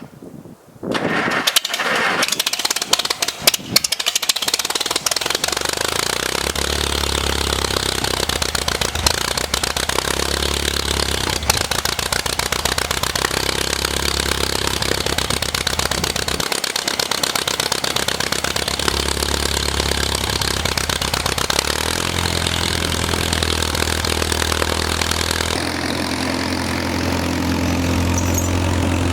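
Farmall tractor engine starting: it cranks and fires unevenly for a few seconds, then settles into steady running. The engine speed changes twice near the end.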